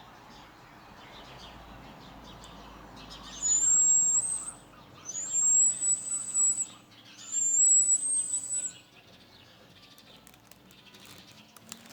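A bird giving three long, very high, thin whistles, each rising at the start and then held level for about a second, with short gaps between them.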